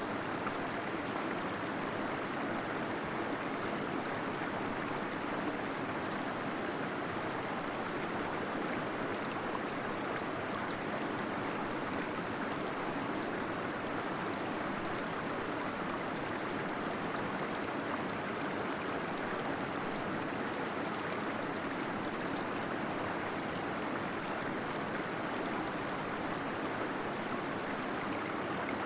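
Small waterfall flowing steadily: an even, unbroken rush of falling water.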